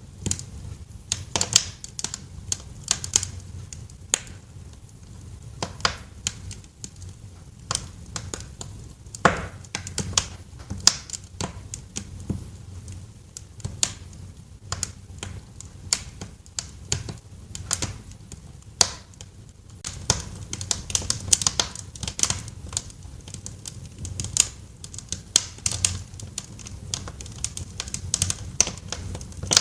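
Wood fire crackling in a fireplace: irregular sharp pops and snaps, several a second and busier in the second half, over a steady low rumble of the flames.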